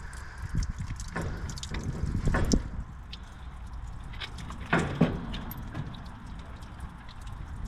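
Scattered clicks and knocks of hand tools and metal fittings being handled while a circulator pump is worked on, with two louder knocks about two and a half and five seconds in, over a low rumble.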